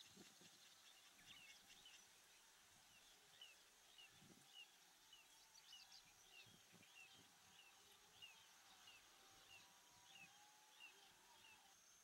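Faint bird call: a short, falling high chirp repeated steadily about every half second.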